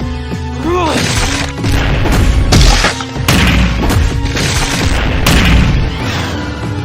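Background music under a string of heavy booming impact sound effects, as in a cartoon fight, with a short swooping tone just before the first hit.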